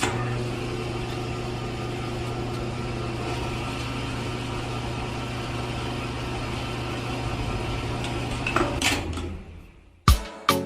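Small electric motor running steadily with an even hum, stopping about nine seconds in.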